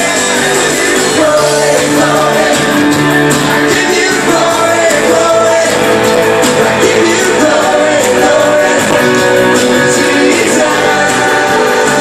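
Live church worship band playing a full-band passage with guitar and singing, picked up on a phone's microphone in a large room.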